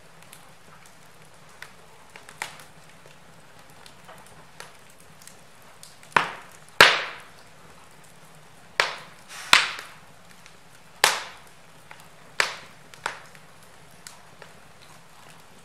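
Wood logs burning in a fireplace, crackling with sharp pops and snaps at irregular intervals. Small scattered crackles come first, then a run of louder pops in the middle.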